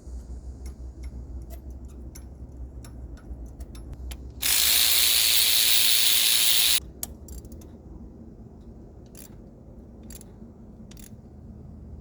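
Hand ratchet clicking in short runs as bolts are worked. About four seconds in, a loud steady hiss of spray or air cuts in for about two seconds, then the scattered clicks resume.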